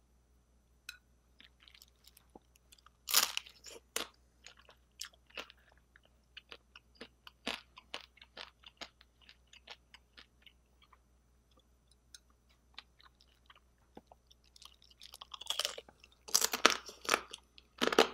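Close-miked chewing and crunching of spicy steamed seafood, with short wet clicks scattered throughout. There is one louder crunch about three seconds in and a dense run of crunching near the end as he bites into crab shell.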